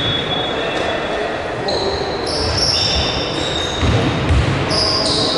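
Basketball in play in a large gym: the ball bouncing on the court several times, with high squeaks that shift in pitch over a background of spectators talking.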